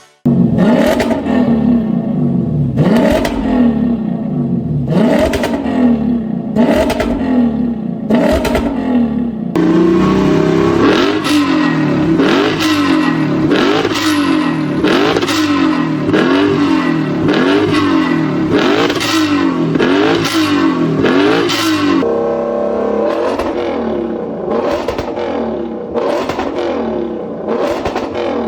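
Lexus RC F's 5.0 L naturally aspirated V8 through a custom one-off exhaust, revved repeatedly in short blips about once a second. The exhaust tone changes abruptly twice, about ten and twenty-two seconds in, as different exhaust setups are compared, and the last part is steadier.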